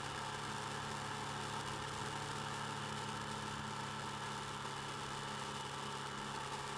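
Motorcycle engine running steadily at a constant speed, heard through the bike-mounted camera's microphone.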